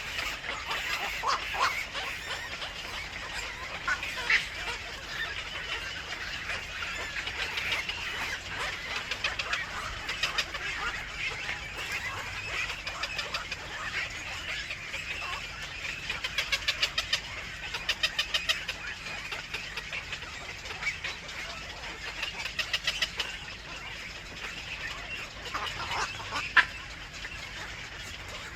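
Birds chirping over and over, with several runs of rapid repeated notes and one sharper, louder chirp near the end.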